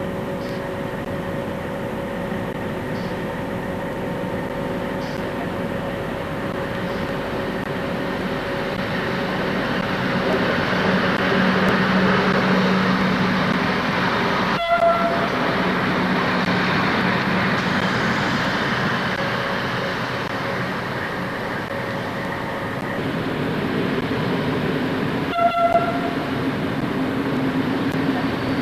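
FS D345 diesel-electric locomotive running with its train, a steady engine note under rail noise that grows louder for several seconds around the middle. Two brief breaks about halfway and near the end.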